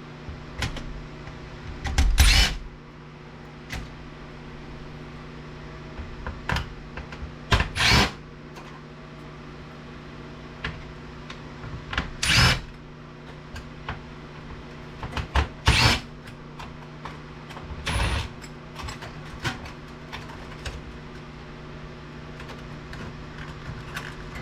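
Power screwdriver running in short bursts of about half a second, five or six times a few seconds apart, backing screws out of a DVD player's casing and boards, over a steady background hum.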